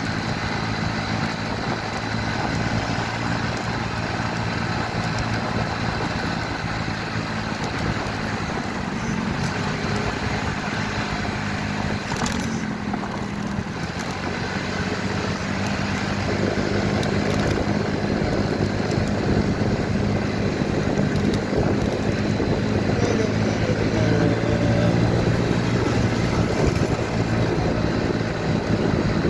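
Motorcycle engine running steadily while riding, with wind and road noise on the microphone that grows louder about halfway through.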